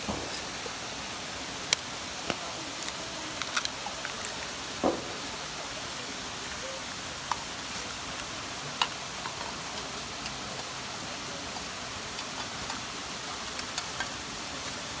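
Steady rushing of a waterfall, with scattered sharp clicks and taps over it, a cluster of them in the first few seconds.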